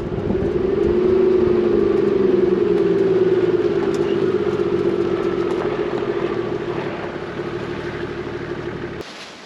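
4WD's engine and drivetrain droning steadily while driving along a dirt road, with a slight waver in pitch early on. It fades gradually, then cuts off abruptly about a second before the end.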